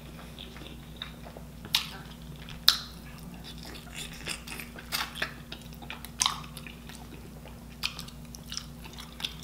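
Close-miked eating: chewing and biting into sauce-covered rotisserie chicken, with sharp mouth clicks scattered irregularly, the loudest about two and three seconds in. A steady low hum runs underneath.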